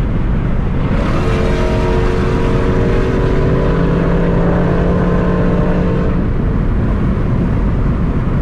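Muscle car driving along: a steady engine drone over loud road noise, with a held engine note that comes in about a second in and drops away around six seconds in.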